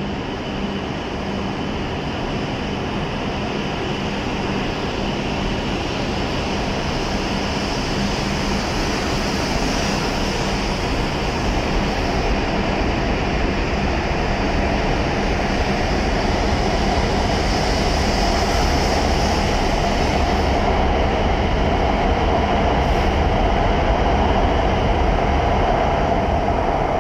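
E7 series Shinkansen train departing and gathering speed past the platform: a steady rush and rumble of the passing cars that grows louder throughout, then starts to fall away near the end as the last car clears the platform.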